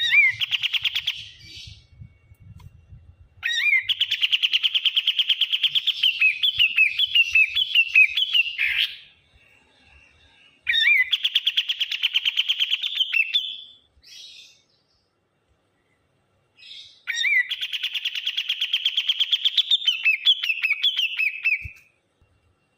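A kapas tembak songbird singing loud phrases of rapid, chattering notes, four phrases of a few seconds each with pauses between, each opening with a sweeping note.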